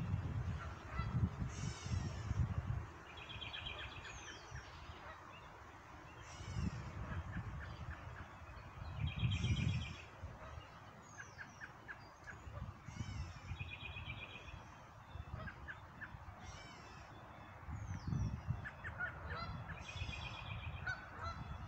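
A chorus of birds calling outdoors, with Canada geese honking among repeated songbird calls every few seconds. A few low rumbles come and go, the loudest about nine seconds in.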